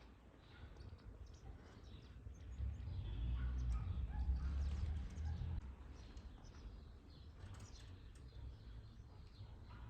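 Small birds chirping in short scattered calls, with a low rumble that swells for about three seconds in the middle.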